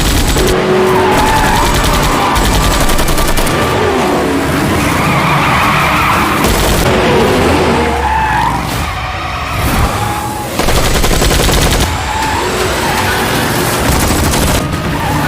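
Car-chase sound mix: tyres screeching and skidding over car noise, with long bursts of rapid automatic gunfire.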